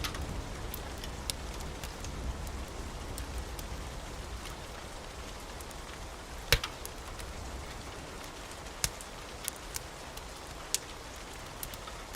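Steady rain with the sharp, scattered pops of a crackling wood fire, one much louder pop about six and a half seconds in. A low rumble of thunder dies away in the first couple of seconds.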